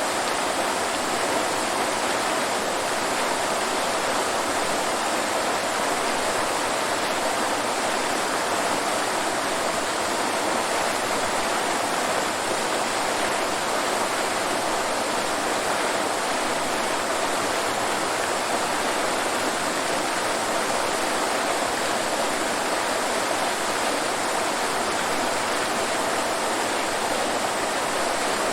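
Waterfall: falling water rushing in a steady, unbroken roar of white noise.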